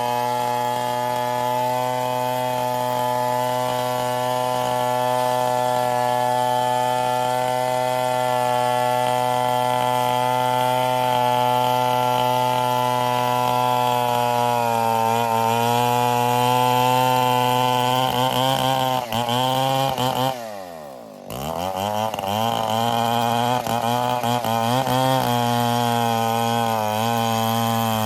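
Stihl 070 two-stroke chainsaw running at high revs, steady at first, then wavering in pitch. About 20 seconds in, the revs fall sharply and the level dips, then the engine climbs back up and keeps wavering.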